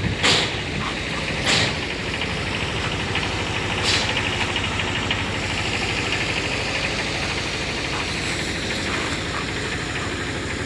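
Small truck engine idling steadily, with a few short, sharp sounds in the first four seconds.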